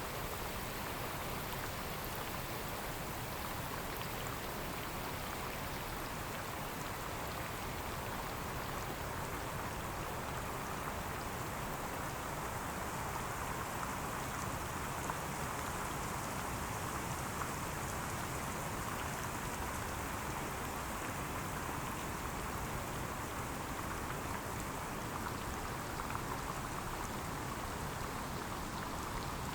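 Steady rain falling on leaves and foliage, an even patter with no break.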